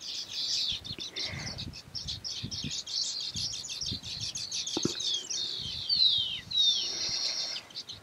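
Baya weavers chattering continuously in a busy nesting colony, a dense high twittering chorus. A few quick falling whistles come about two-thirds of the way through.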